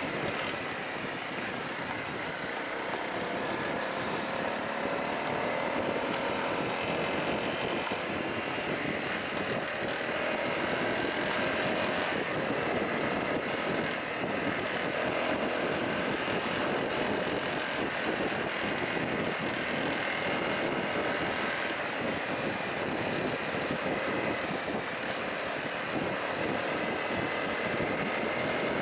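Honda CRF250L's single-cylinder four-stroke engine running steadily on the move, its pitch drifting gently up and down with the throttle, over a constant rush of wind and tyre noise on gravel.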